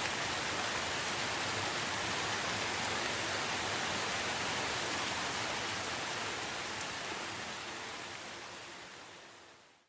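Steady heavy rain, an even hiss with no single drops standing out, fading out over the last few seconds.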